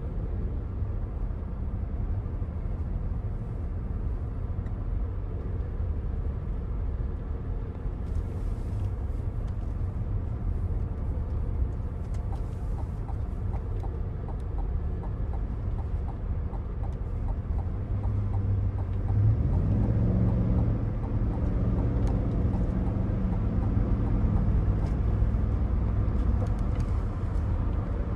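Cabin sound of a Cadillac Escalade ESV on the move: a steady low rumble of road and tyre noise. A faint, evenly spaced ticking comes in partway through, and about two-thirds of the way in the 6.2-litre V8's note rises and grows louder as the SUV accelerates, then holds.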